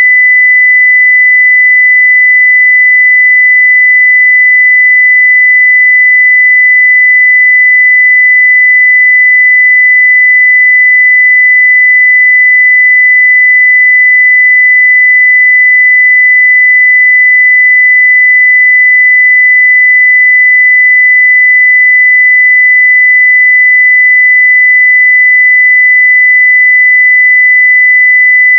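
Continuous 2 kHz sine-wave test tone at full level (0 dB), a single steady pitch with no change.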